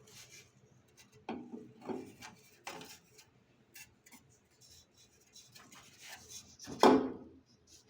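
Irregular handling noise: scattered knocks, scrapes and rubs of hard objects, with one louder knock about seven seconds in.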